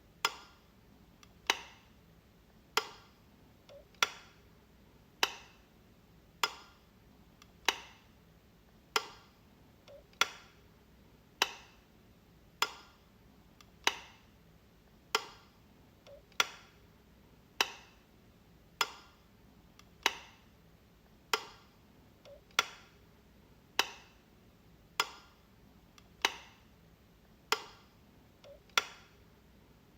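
A light switch clicking over and over, one sharp click about every one and a quarter seconds, each with a brief ring-off, and a fainter small click just before some of them.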